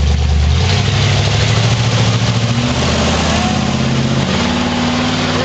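Mud truck engine running under heavy throttle, its revs climbing about half a second in and holding high with small shifts in pitch.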